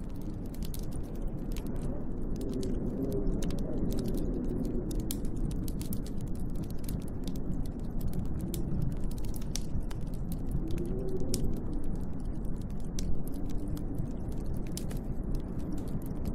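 Wood fire crackling with frequent irregular sharp pops, over a steady wind whose low tone rises and falls in gusts.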